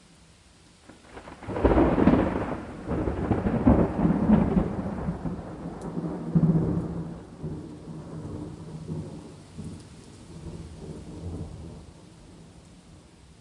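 A peal of thunder over steady rain. It starts sharply about a second and a half in, rumbles in several loud surges for about five seconds, then rolls on more faintly and dies away near the end.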